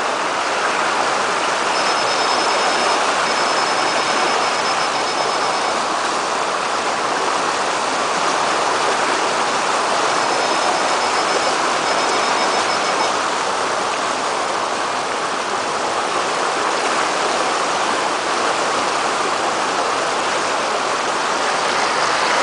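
Floodwater rushing, a steady even rush with no break.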